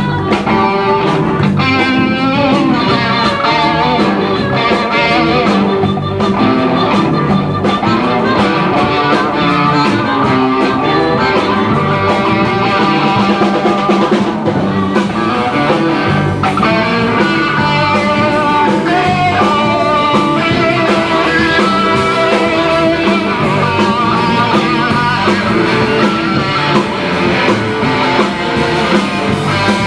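A blues-rock band playing live, with a guitar carrying the lead in bending, sliding lines over bass and drums.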